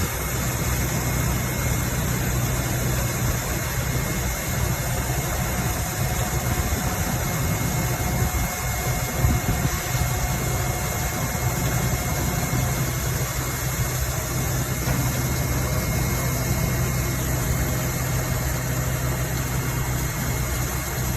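Vacuum truck's engine running steadily at idle, a low even hum with no change in speed.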